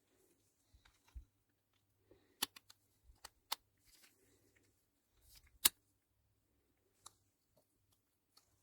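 A few sharp clicks among light handling noises of small parts, from hands working on a bicycle gear shifter during its rebuild; the loudest click comes about two thirds of the way in.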